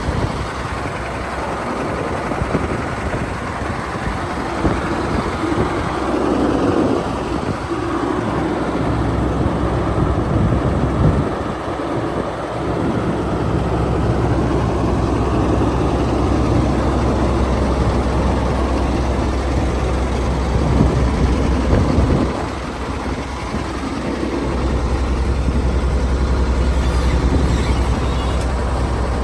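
Caterpillar diesel engine of a GMC TopKick truck running. The sound is uneven at first, then settles into a steady low idle about three-quarters of the way through.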